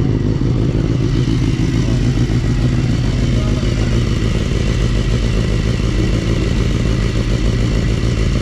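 Racing motorcycle engine idling steadily.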